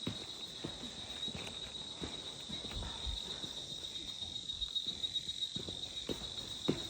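Steady high-pitched drone of rainforest insects, one unbroken whine, with scattered short low knocks and thumps throughout.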